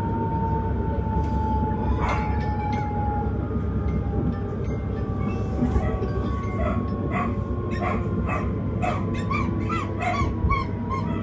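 Vienna S-Bahn electric train heard from inside the carriage: a steady rumble of wheels on track, with a thin electric motor whine that slowly falls in pitch. In the second half comes a run of short, high chirps and clicks.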